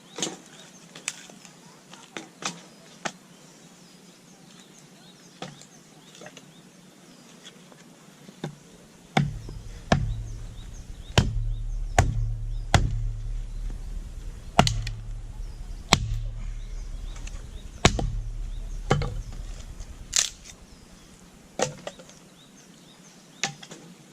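Firewood being split by hand: a series of sharp, cracking wooden strikes, light at first, then heavier blows about a second apart through the middle with a low rumble under them, tapering off near the end.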